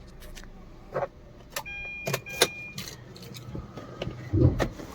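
Several sharp clicks and knocks from things being handled inside a car, with one electronic beep about a second long near the middle, over a faint steady hum.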